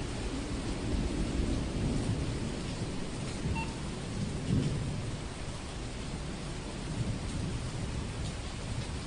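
Steady rain with a low, rolling rumble of thunder that swells to its loudest about halfway through and then eases off.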